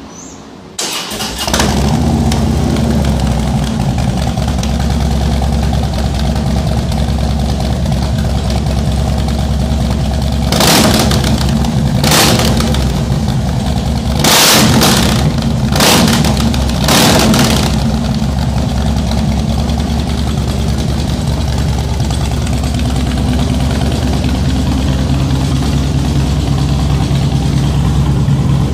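Harley-Davidson Road King's air-cooled V-twin starting about a second in through a 2-into-1 exhaust, then idling. About ten seconds in the throttle is blipped about five times in quick succession, and the engine settles back to idle.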